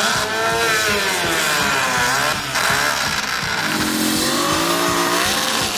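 V8-engined big chainsaw running and being revved, its engine pitch rising and falling several times, settling lower and steadier for about a second near the four-second mark before rising again.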